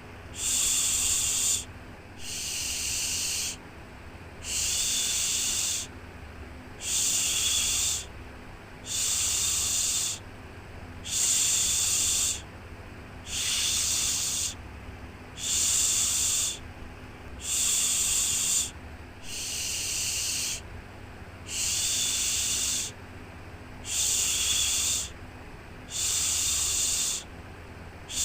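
A repeated 'shhh' shushing sound for soothing a baby to sleep: a long hiss about every two seconds, each lasting a little over a second, over a faint, steady low background noise.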